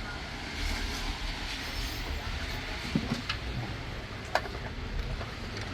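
Steady low mechanical rumble with background noise, broken by a few sharp knocks about three and four seconds in.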